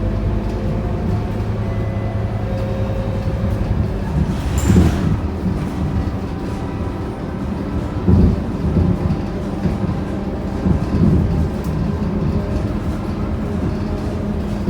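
Scania K230UB Euro 5 city bus heard from on board: its diesel engine running steadily under constant rumble from the road and body, with a short hiss of compressed air about five seconds in and a thump about eight seconds in.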